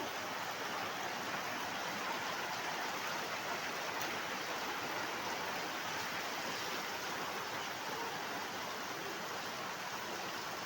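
Steady hiss of falling rain and running water, even and unbroken.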